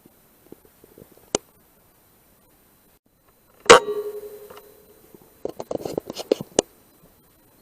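A rifle shot at a rat: one sharp crack with a ringing tone that fades over about a second and a half. A single click comes before it, and a quick run of clicks and knocks follows a couple of seconds later.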